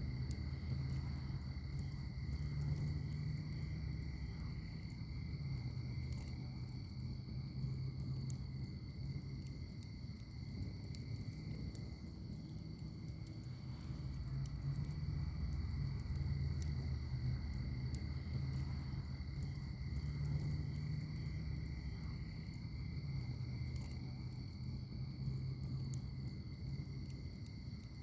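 Wood fire burning in a firepit, crackling and popping with many small sharp pops over a low, swelling rumble of flame. A steady high-pitched trill sounds behind it throughout.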